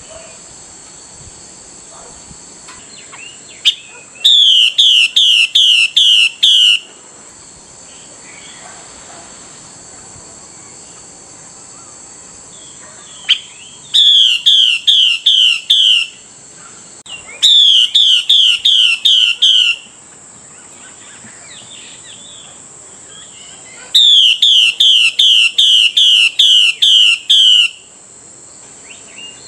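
Female Chinese hwamei (hwamei thrush) giving its 'xùy' call to a male: four bouts of loud, rapidly repeated falling whistled notes, about three a second, each bout lasting two to three seconds with pauses between.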